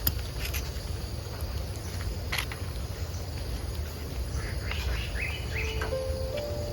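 Outdoor ambience: a steady low rumble with a few sharp clicks and some short chirps. Background music with held melodic notes comes in near the end.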